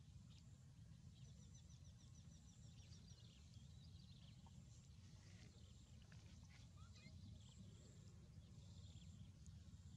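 Near silence: faint outdoor background with a low steady rumble and distant birds chirping, including a quick run of high chirps about a second in.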